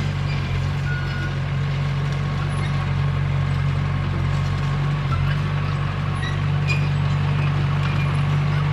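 Komatsu D21P bulldozer's diesel engine running steadily, with a few faint short high squeaks over it.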